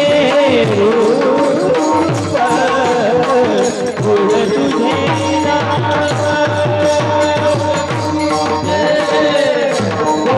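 Devotional bhajan music: a hand drum plays a quick, steady rhythm under a melody line that is held and ornamented with wavering turns.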